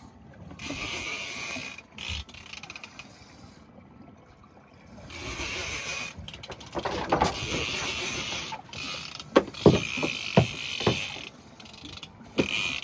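Fishing reel being cranked in stretches of a second or two, a gritty ratcheting whir, as the angler reels against a hooked shark. A few sharp knocks come near the end.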